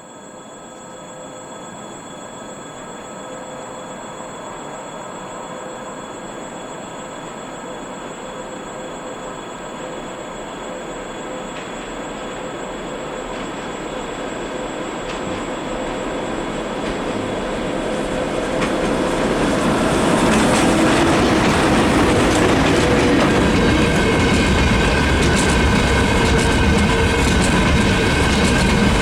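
VL80S electric locomotive hauling a freight train, approaching and then passing. A steady whine with several held tones grows louder over about twenty seconds, then the passing wagons rumble and clatter on the rails at a steady high level.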